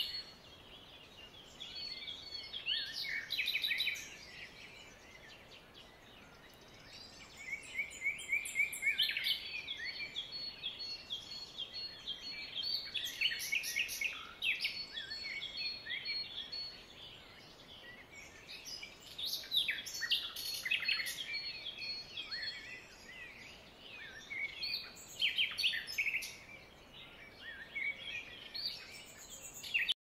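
Songbirds chirping and singing, several birds calling over one another in bursts every few seconds, over a faint outdoor hiss.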